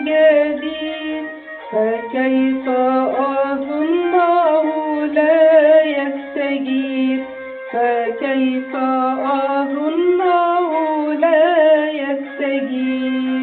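Music: the end of an Arabic hymn, a female voice singing a wavering, ornamented line without clear words over held instrumental notes.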